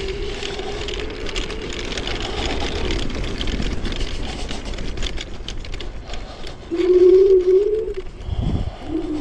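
Dual hub motors of a Chaos FreeRide 2400 W electric scooter whining while riding over rough ground, with tyre and wind rumble. The whine holds steady at first; near the end it swells into a louder, wavering whine for about a second, followed by a low thump.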